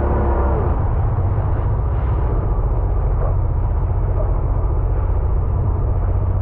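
Sea-Doo jet ski running on the water: a clear engine tone fades about half a second in, leaving a steady, rough low rumble of engine, water and wind on the microphone.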